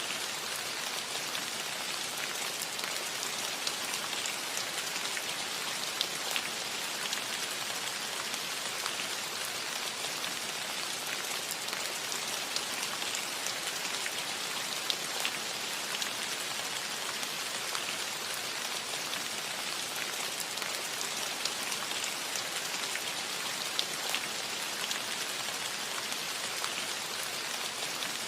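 Soft, steady rain on a metal roof: an even hiss with scattered sharper drop ticks standing out.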